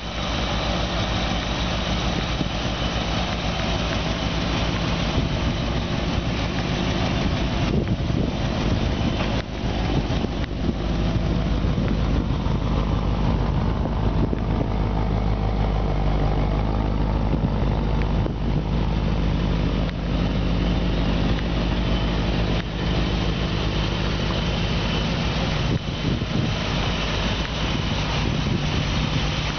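A 1959 Chevrolet sedan's engine idling steadily.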